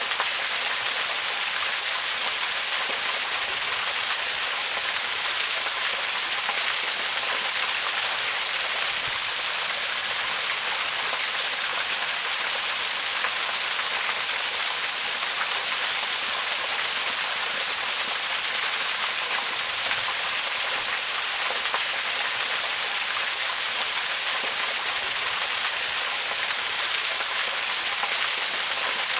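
Waterfall: steady, even rush of falling water, bright and hissy, with no change in level.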